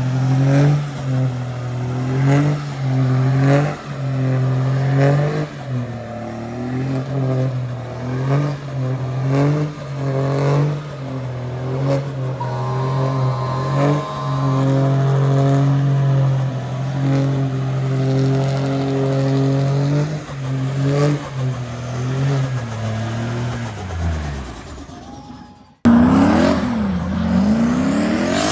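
Vehicle engine held at high revs during a burnout, its pitch dipping briefly about once a second and then holding steady, before winding down near the end. After a sudden cut, an engine revs up and down.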